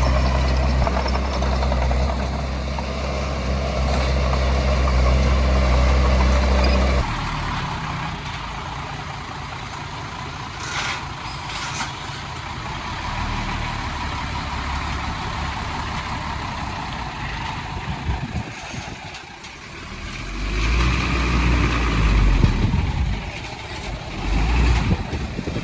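Diesel engine of heavy earthmoving equipment running. It makes a loud low drone for about the first seven seconds, drops suddenly to a quieter rumble, then grows loud again about twenty seconds in.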